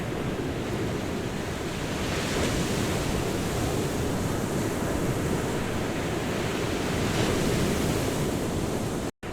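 Ocean surf washing on a beach as a continuous rush that swells twice as waves break. The sound cuts out for a moment near the end.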